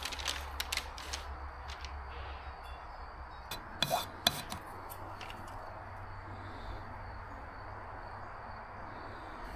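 Light clinks, taps and rubbing of metal objects being handled, in two short clusters, near the start and around four seconds in, over a low steady hum.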